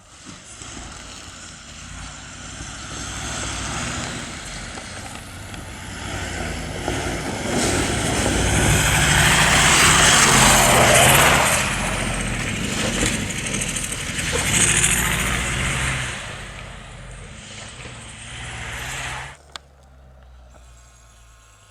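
Rally-raid competition vehicle approaching and passing at speed, engine revving hard, growing louder to a peak about halfway through. The sound stops abruptly about 19 seconds in.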